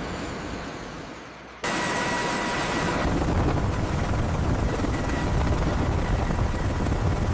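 Mi-8 helicopter's turboshaft engine running after start: a loud rumble with a steady high whine. It cuts in abruptly about one and a half seconds in, after a fading rush of noise.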